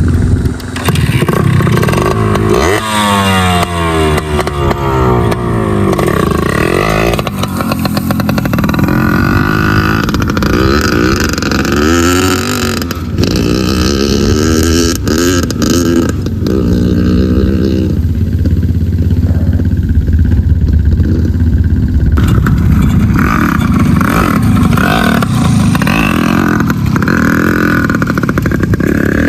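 Small dirt bike engine running and revving, its pitch climbing and dropping again and again as it accelerates and backs off, with a steadier stretch past the middle.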